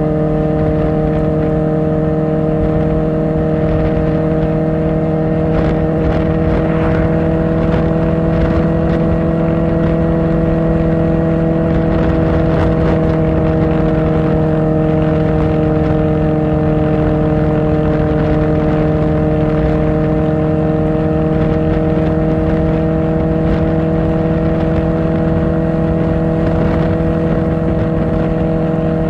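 Kawasaki Ninja ZX-4R's inline-four engine running through an Akrapovic exhaust, held at a steady engine speed while the bike cruises, with a constant rush of wind and road noise under it.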